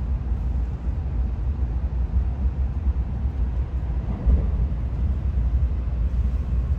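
Steady low rumble of a moving Shinkansen train, swelling slightly about four seconds in.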